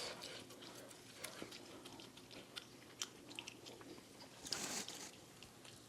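A person chewing a mouthful of food close to the microphone, with many small wet, crunchy clicks, and a brief soft noise about four and a half seconds in.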